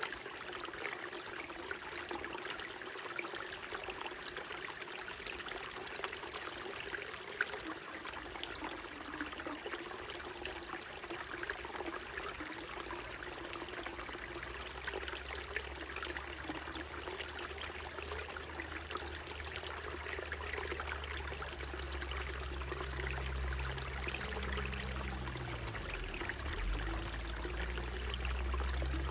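Small mountain stream, a steady rush and trickle of running water. From about halfway in, a low rumble with a faint hum rises underneath it and grows toward the end.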